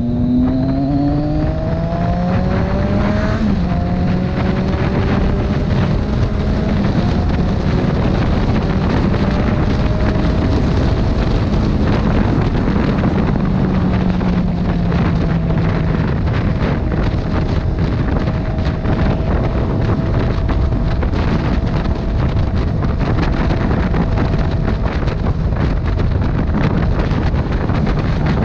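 Motorcycle engine pulling hard and rising in pitch, with an upshift about three seconds in, then running at a steady cruise. Heavy wind buffeting on the microphone runs throughout.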